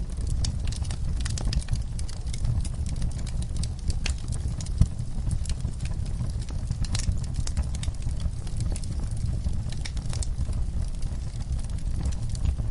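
Wood fire burning in a fireplace, with irregular sharp crackles and pops over a steady low rumble of the flames. One louder pop about five seconds in.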